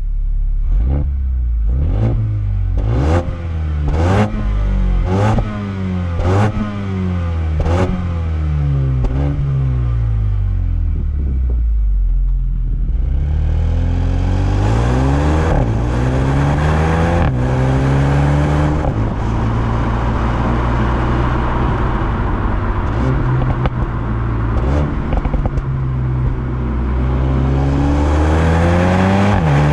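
Mercedes-AMG A 35's 2.0-litre turbo four-cylinder being revved in quick blips about once a second, with sharp cracks at most blips. About twelve seconds in it pulls away hard under full throttle, the pitch climbing and dropping back at each upshift of the seven-speed dual-clutch, with rising road and wind rush.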